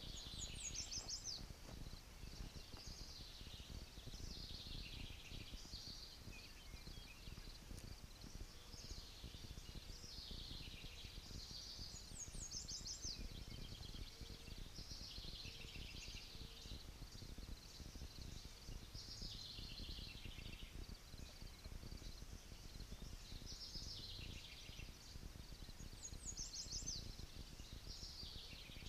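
A songbird singing again and again in short trilled phrases that sweep downward, with a higher, thinner trill now and then. A low wind rumble runs underneath.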